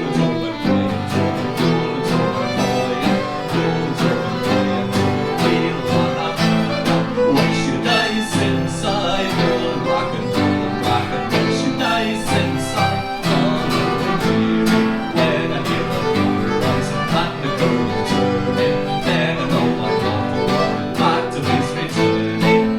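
Fiddle and electric guitar playing a lively Scottish/Cape Breton fiddle tune together, the guitar strumming chords under the fiddle's melody.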